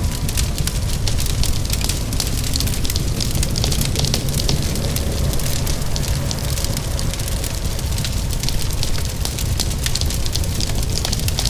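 Wood fire crackling, with dense irregular pops and snaps over a steady low rumble, and rain falling in the background.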